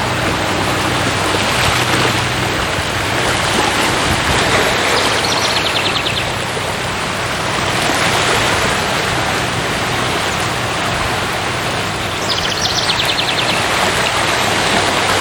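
Steady rush of flowing water, as from a forest stream or waterfall. A bird's short, rapid trill of high notes cuts in twice, about five seconds in and again later.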